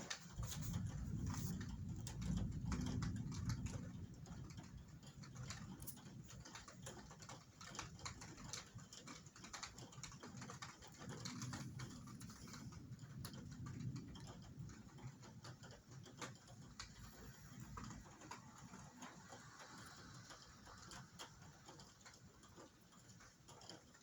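Rain in a thunderstorm, drops ticking irregularly against a hard surface, over a low rumble of thunder that is loudest in the first few seconds and swells again about halfway through.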